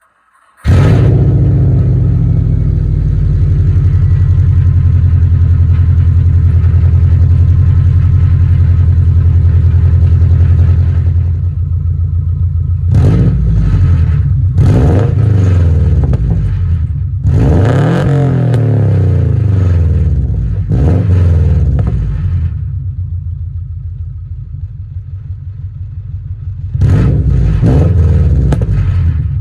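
2000 Subaru Impreza Outback Sport's EJ22 2.2-litre flat-four, through an unequal-length header and full exhaust, cold-starting about half a second in and holding a steady, high fast idle with the rumble typical of unequal-length headers. After about ten seconds the idle drops, then the engine is revved in several short blips, and once more near the end.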